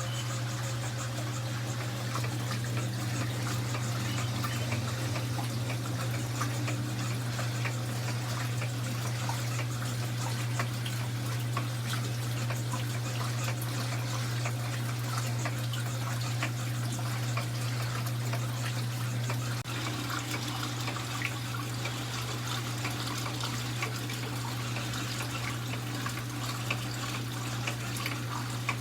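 A 1982 Brastemp Luxo top-loading washing machine running with a load of sheets: a steady low motor hum under the sound of water in the tub.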